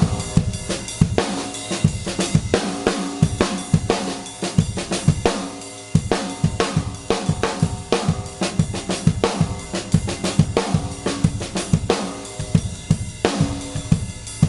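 Drum kit being played: a Ludwig Exotic Bird's Eye Maple 14x6.5 snare drum tuned medium-low, with bass drum, hi-hat and cymbals, in a dense, steady run of strokes.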